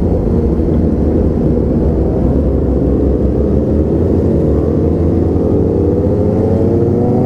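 Motorcycle engine and wind rumble heard on a helmet-mounted camera while riding, with the engine note climbing in pitch in the second half as the bike accelerates.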